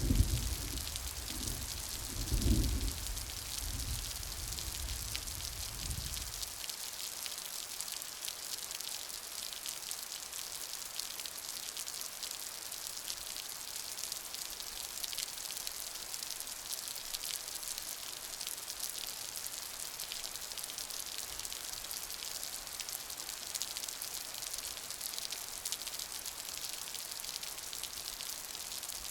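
Steady rain, an even hiss of many small drops. A loud low rumble sounds through the first few seconds and dies away about six seconds in.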